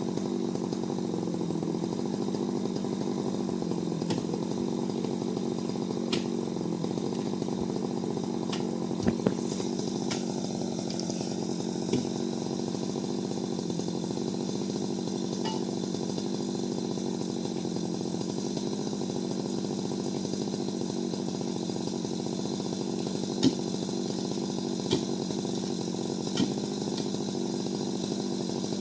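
Chainsaw engine running steadily at a high, even pitch, with a few sharp knocks now and then.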